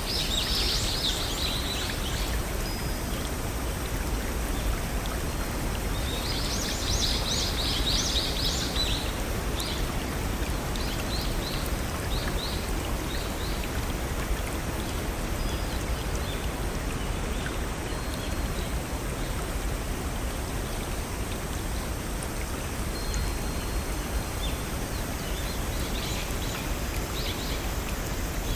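A small stream spilling over rocks, a steady babbling rush. Over it a songbird sings quick high twittering phrases a few times, the longest about six to nine seconds in.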